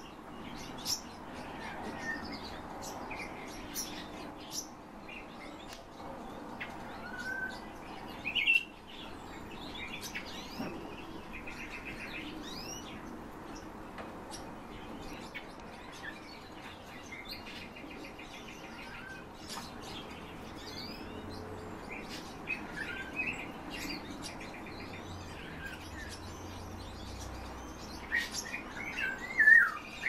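Caged songbirds chirping and calling in short scattered notes and brief whistled glides, with a few short rapid trills in the middle and a louder flurry of calls near the end.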